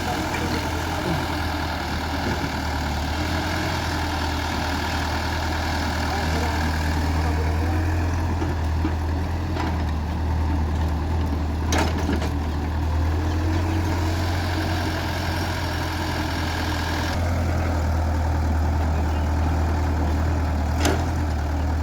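Heavy diesel machinery engine running steadily with a low, even hum, with two brief sharp clicks, one about halfway through and one near the end.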